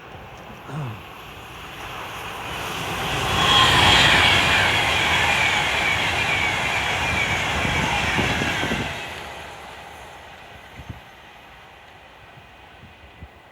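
A train passes close by. Its rush builds over about two seconds and is loudest about four seconds in. It holds with a hissing rumble and short falling squeals until about nine seconds in, then fades away.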